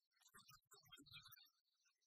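Faint eating sounds: quiet chewing with small wet mouth clicks, and a few soft low thumps in the first second and a half.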